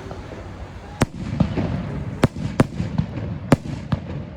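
Small aerial firework shells bursting at close range: a run of sharp bangs, about four loud reports with smaller pops between them.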